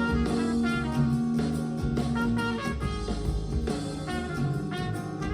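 Instrumental passage of a Thai pop song played back through Elac Debut 2.0 DB62 bookshelf speakers, with sustained melody notes over a steady bass line, picked up by a phone in the listening room.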